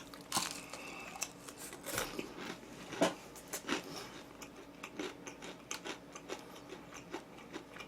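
Close-miked eating: irregular bites and chewing with crisp crunches and clicks, roughly one every half second to a second.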